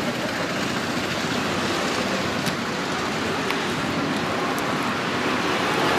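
Steady road-vehicle and traffic noise, with a few faint clicks.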